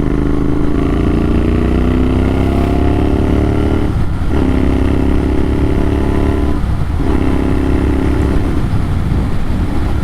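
Motorcycle engine breathing through an AEW TE102 exhaust with the dB killer removed, accelerating under load: the note rises steadily, drops out briefly twice for gear changes about four and seven seconds in, then eases off near the end, over a heavy low rumble.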